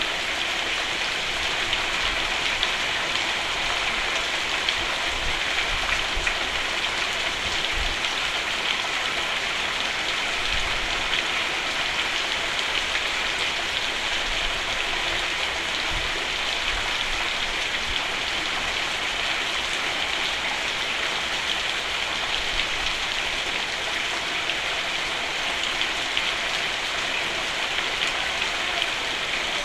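Steady rain falling on a roof: a dense, even patter of drops with occasional soft low thuds.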